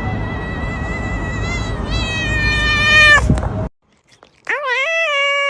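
Two long, drawn-out cat meows. The first is a high, held yowl over background hiss that wavers and rises before cutting off about three and a half seconds in. After a short silence, a lower meow swoops up at its start and is then held steady.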